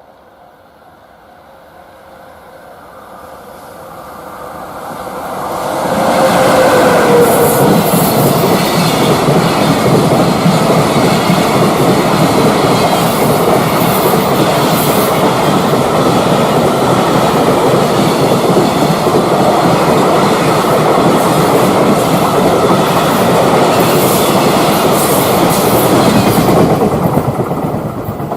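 Freight train approaching, growing louder over the first six seconds, then passing close for about twenty seconds with a steady rolling rumble of its wagon wheels on the rails, and starting to fade near the end.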